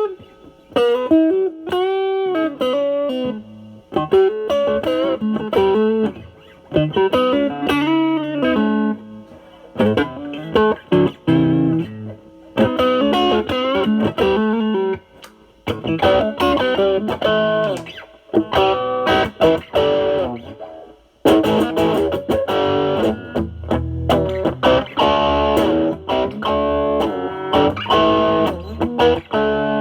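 Semi-hollow electric guitar played through a Nobels ODR-1 overdrive pedal (bass cut mod) set to a high drive into a Marshall Valvestate amp's clean channel. Improvised blues lead phrases with string bends and vibrato, turning to fuller chords in the last third.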